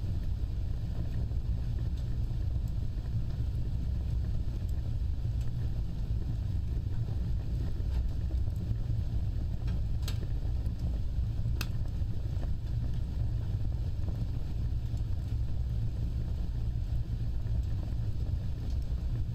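Wood fire burning with a steady low roar and a few faint crackles; about halfway through, two sharp pops a second and a half apart.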